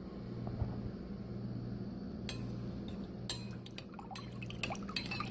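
Sugar water being mixed for hummingbird food: liquid sloshing in a container, with light clinks and taps that begin about two seconds in and grow more frequent, over a steady low hum.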